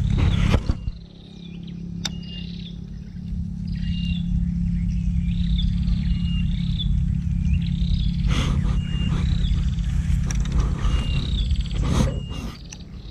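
A bird repeats a short whistled call again and again over a steady low rumble. A few sharp clicks come from handling the baitcasting rod and reel.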